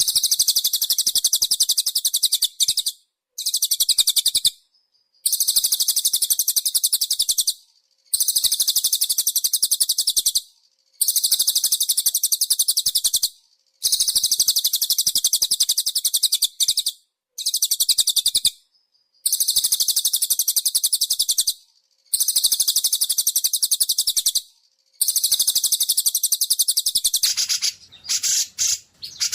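Recorded songbird song used as a masteran training track: dense, very high-pitched rapid trilling in repeated bursts of about two to three seconds, separated by short pauses. Near the end this changes to shorter, broken calls.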